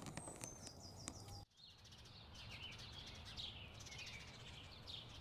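Faint outdoor birdsong: many short, high chirps that sweep downward, coming every half second or so, over a low steady background hum. About a second and a half in, the sound cuts out briefly and comes back.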